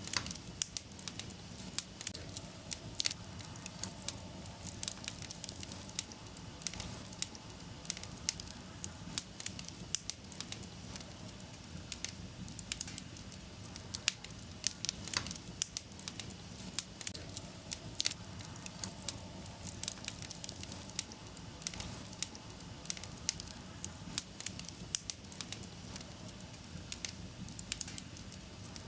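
Wood fire burning in a fireplace, crackling with many sharp irregular pops over a steady low hiss.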